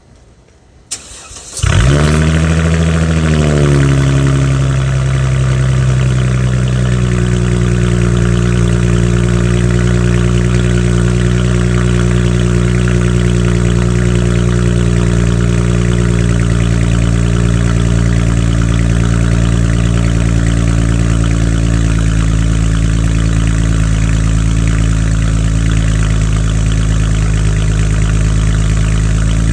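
Car engine breathing through a straight-through exhaust with no muffler, an X-pipe and the second catalytic converters deleted, starting up about one and a half seconds in: it catches with a brief rev flare that settles over a few seconds into a steady, loud idle.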